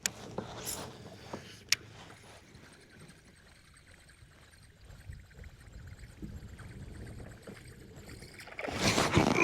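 Water lapping and gurgling around a fishing kayak, with a few light knocks early on, then a louder burst of splashing about a second before the end as a hooked fish reaches the boat.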